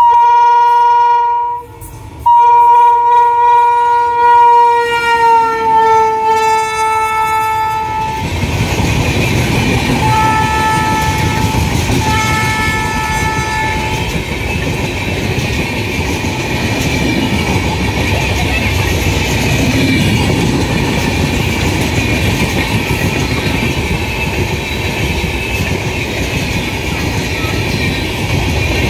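An Indian Railways electric locomotive sounds its horn as it runs in at speed: a short blast, then a long blast whose pitch drops as the engine passes. Its LHB coaches follow with a steady rumble and clatter of wheels on the rails, with two more short horn notes about ten and twelve seconds in.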